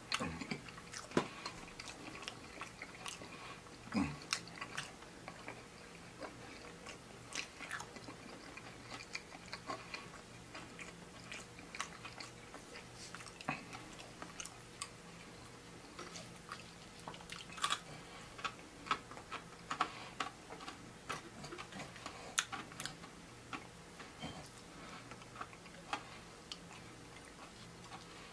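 A person chewing and biting into fried chicken wings close to the microphone, heard as a scatter of irregular mouth clicks and small crunches.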